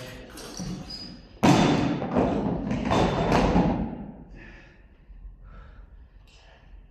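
A heavy thud of barbell weight plates about a second and a half in, followed by a couple of seconds of clanking and rattling that dies away.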